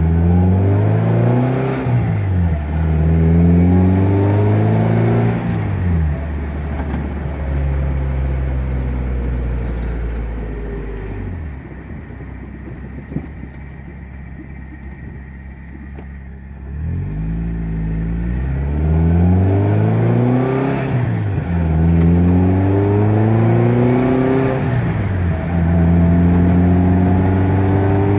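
1981 Fiat Spider 2000's four-cylinder twin-cam engine heard from inside the cabin, pulling up through the gears with its pitch climbing and then dropping at each shift. Near the middle it eases off to a much quieter low run for several seconds. It then accelerates through several more gear changes and settles to a steady cruise near the end.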